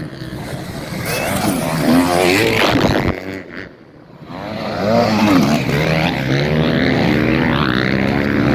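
Several motocross motorcycles racing, their engines revving up and falling back as they ride through the track. The sound drops away briefly a little past halfway, then builds again.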